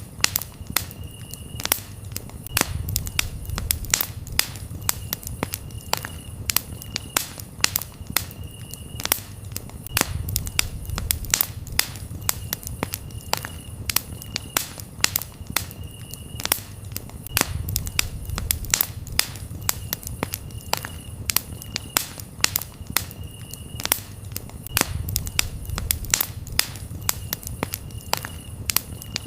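Campfire crackling and popping in a dense run of sharp snaps, over a low rumble of flames that swells every several seconds. Crickets chirp in short, even pulses behind it.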